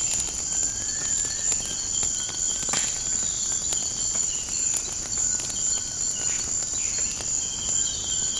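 Crickets trilling steadily at a high pitch, with scattered pops and crackles of a burning wood fire and a few short whistled calls.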